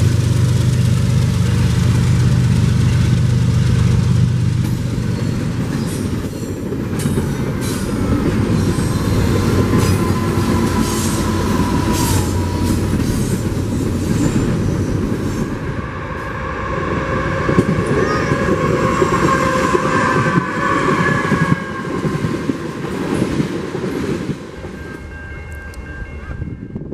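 Double-stack container freight train passing close by: a diesel locomotive running in the train rumbles past in the first few seconds, then the loaded well cars roll by with rattling, clanking and high wheel squeal. A little before the end the sound drops away sharply to a much quieter train scene.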